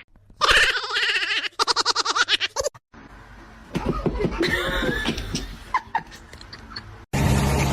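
A person laughing, first in a long cackle and then in quick rapid bursts, for the first few seconds. Near the end a steady rushing noise begins.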